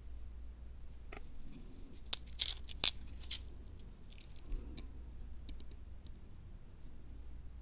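Small hand-crafting sounds from building a miniature diorama: light crunchy rustling and a few sharp clicks, the loudest two about two and three seconds in, over a low steady hum.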